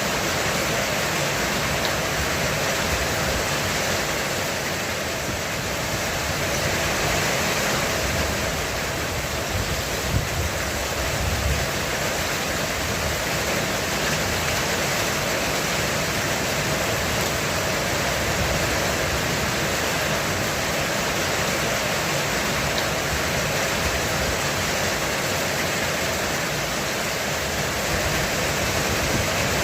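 Heavy rain falling steadily on a roof, a dense, even hiss of drops with no let-up.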